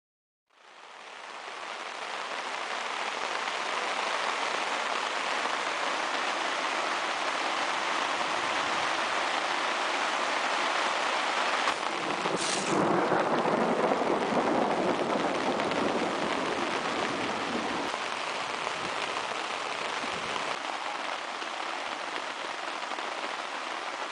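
Steady rain falling, fading in just after the start, with a brief louder rush about halfway through.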